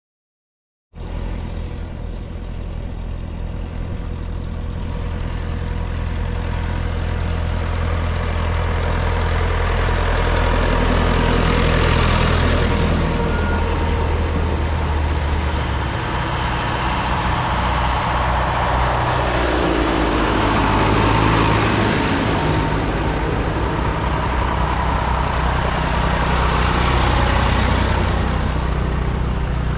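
Vintage diesel tractor engines running as tractors drive past one after another. The low engine drone is steady, and the sound swells several times as each one comes close.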